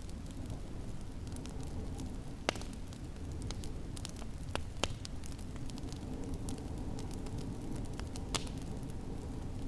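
Wood fire crackling in a fireplace: scattered sharp pops and snaps, a few louder ones about two and a half, five and eight seconds in, over a steady low rumble.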